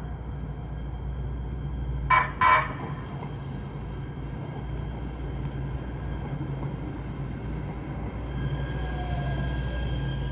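Light rail train at a station platform sounds two short horn toots about two seconds in. A steady low electric hum from the train follows, with a faint whine building near the end.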